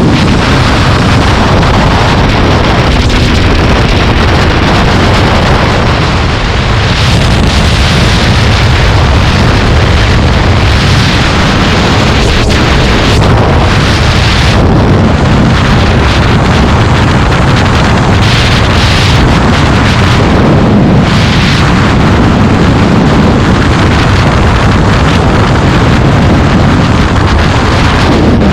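Heavy wind buffeting on the microphone over the rumble of a moving vehicle, loud and continuous, with short gusts swelling in the upper range several times.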